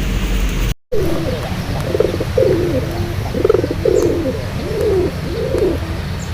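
Domestic pigeons cooing: a run of rising-and-falling coos over a steady low rumble.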